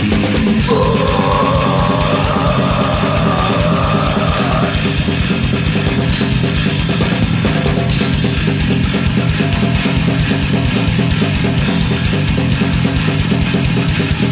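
Loud rock band playing an instrumental passage live: distorted guitars, bass and a fast, steady drumbeat, with no singing. A higher, wavering lead line rides over the band for the first few seconds.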